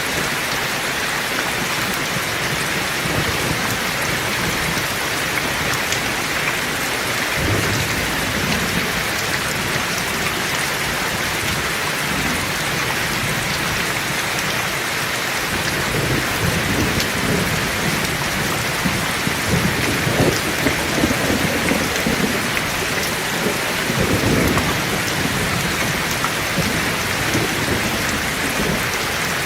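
Heavy rain falling steadily as a dense hiss, with thunder rumbling low underneath. The thunder comes in about a quarter of the way through and rolls strongest through the middle and latter half.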